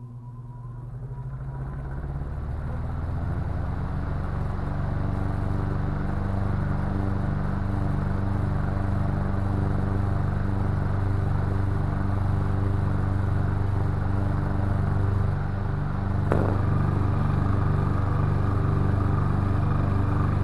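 Emerson 12-inch electric table fan (model 77646-SU) starting up on high: the motor hum and blade air noise build over the first few seconds as it spins up, then run steadily at full speed. A single brief click about three quarters of the way through.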